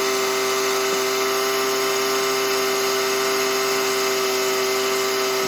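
A steady motor-like whine that holds one pitch without wavering, then cuts off suddenly at the end.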